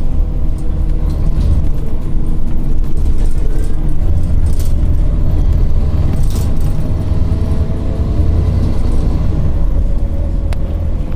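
Scania OmniCity city bus heard from inside while under way: a steady engine drone over a deep road rumble, the engine pitch shifting a little, with a few brief knocks from the body.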